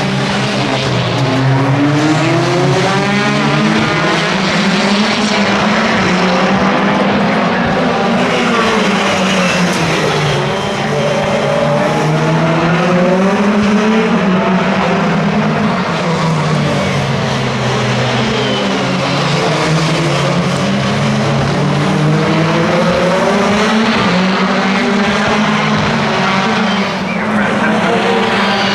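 Several race car engines at full throttle, their pitch climbing and dropping again and again through gear changes and braking as a field of cars laps past. It goes on without a break.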